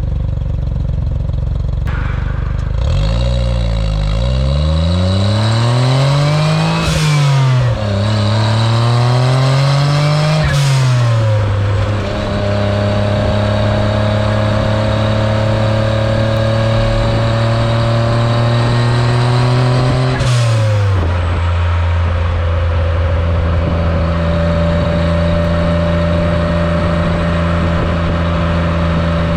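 Autozam AZ-1's small turbocharged three-cylinder engine breathing through a straight downpipe with no catalytic converter, accelerating hard through the gears: the pitch climbs, falls suddenly at a shift about seven seconds in, climbs again and shifts about eleven seconds in. It then holds a steady cruise, and about 21 seconds in drops to a lower steady pitch.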